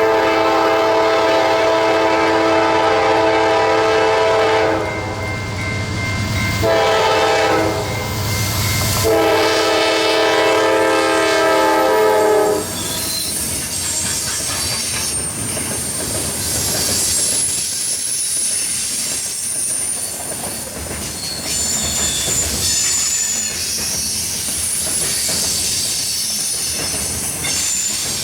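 Nathan K5LA five-chime air horn on a Norfolk Southern freight locomotive sounding a long, a short and a long blast, the close of the standard grade-crossing signal. Then the freight train rolls past, wheels clicking over the rail joints with thin high-pitched wheel squeal.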